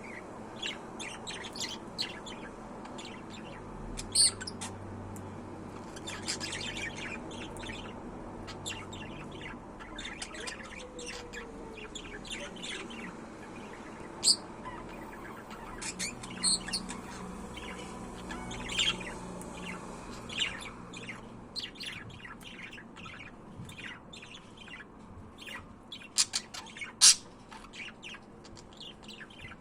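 Budgerigars chirping and chattering: a steady stream of short, high chirps with a few louder, sharp calls scattered through.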